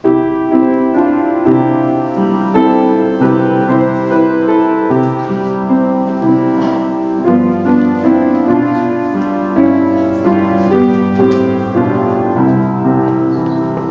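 Piano playing a hymn introduction in sustained, changing chords.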